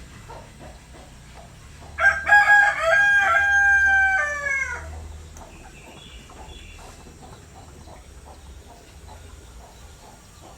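Rooster crowing once, a single cock-a-doodle-doo of about three seconds that holds its pitch and falls away at the end. A faint background of scattered small sounds runs under it.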